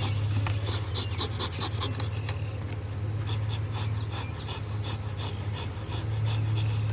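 Honeybees buzzing in and over a freshly opened, smoked hive: a steady low hum, with runs of quick, soft, breathy puffs about five or six a second.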